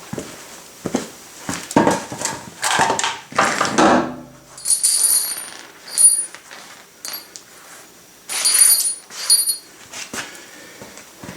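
Work noise of knocks and scraping, then small metal parts jingling and clinking twice with a bright ring.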